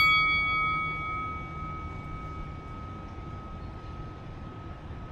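The ringing tail of three quick bell-like strikes: one clear tone fading away over the first couple of seconds, over a steady low rumble.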